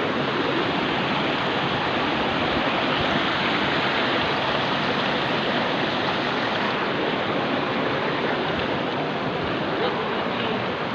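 Steady, unbroken rushing noise, like running water.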